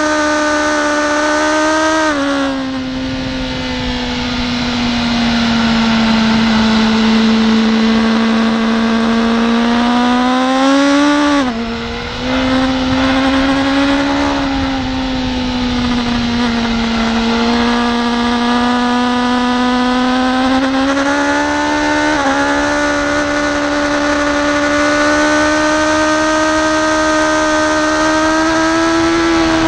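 BMW S1000RR inline-four sportbike engine running hard at high revs on track, its pitch gliding up and down through the corners. There are sharp breaks in the note about two seconds in, around eleven to twelve seconds in with a brief dip in loudness, and again around twenty-two seconds in, over a steady rush of wind.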